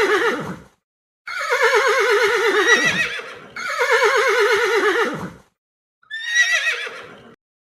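Horse whinnying: a call that ends just after the start, then two long whinnies of about two seconds each, and a shorter one near the end. Each has a rapidly trembling, wavering pitch.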